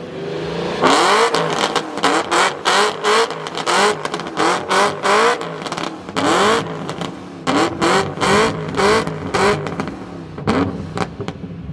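A car engine revved hard in quick repeated blips, about two a second, each a short loud burst of exhaust with the pitch sweeping up. There are brief pauses about six and seven seconds in, and the last few blips near the end are weaker.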